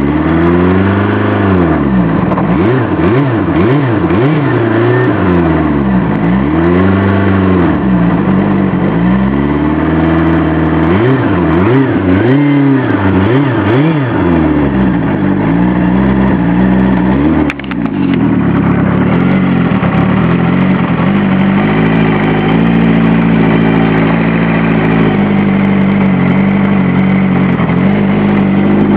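Kawasaki GPz750 Turbo's air-cooled inline-four engine, cold and running on choke, revving up and down over and over as it struggles to hold an idle. About seventeen seconds in, the revs drop briefly and then settle into a steady idle.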